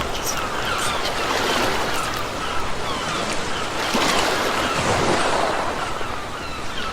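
Sea waves breaking and washing on a shore: a steady rushing surf that swells about a second in and again around four seconds in.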